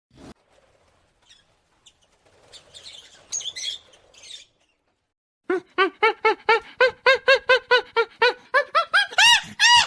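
A bird calling: a rapid series of short, clipped pitched notes, about five a second, that gets higher and louder near the end, after a few faint chirps in the first half.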